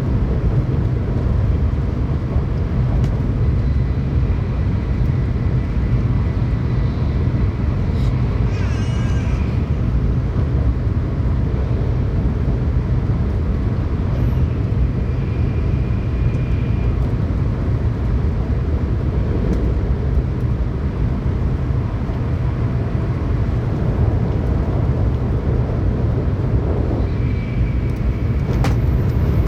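Steady low rumble of a Tokaido Shinkansen train running at speed, heard from inside the passenger car. A brief higher rushing sound comes about eight seconds in.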